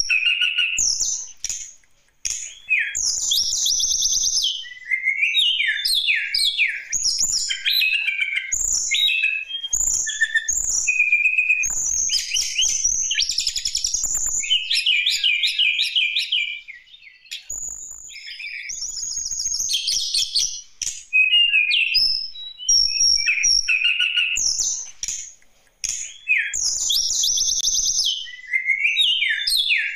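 A tledekan gunung singing a long, varied song of rapid chirps, trills and whistles, with brief pauses about halfway through and again near the end.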